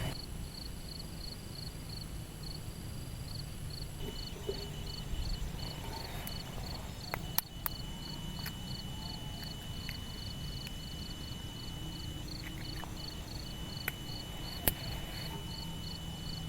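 Crickets chirping in an even rhythm, about three chirps a second, over a steady high insect trill, with a few sharp clicks.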